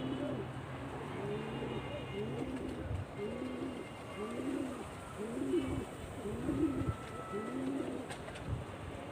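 Domestic pigeons cooing, a run of about ten coos one after another. A low steady hum fades out a couple of seconds in.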